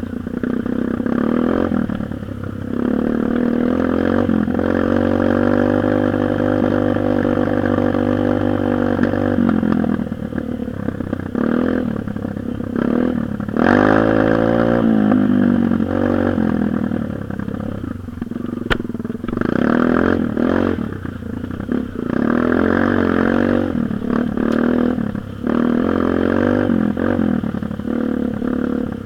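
Dirt bike engine running and revving, its pitch repeatedly rising and falling, with a steadier stretch early on.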